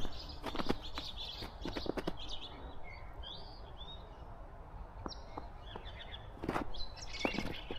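Small birds chirping in short calls, over footsteps in snow. The steps stop for a few seconds in the middle and start again near the end.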